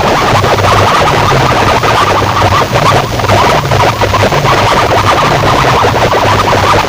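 Heavily distorted dance music blasting at full volume from large DJ speaker boxes, with a pulsing, stepping bass line, clashing with a second sound system playing at the same time.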